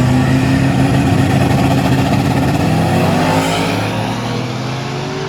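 Drag-racing street cars running at full throttle down the strip with the engine note held high, then fading as they pull away near the end.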